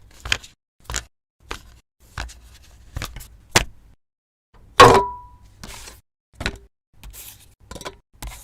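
A series of short, sharp clicks and taps, about one or two a second, with one louder clink that rings briefly about five seconds in, followed by softer short scraping rustles.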